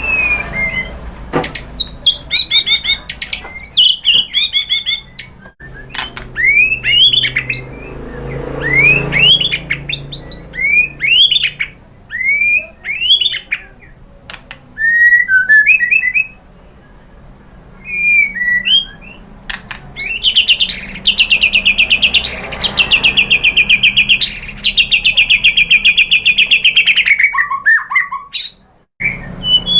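White-rumped shama singing: loud, varied whistled phrases of quick upslurred notes with short pauses, then from about twenty seconds in a long, fast rattling trill that runs for about seven seconds.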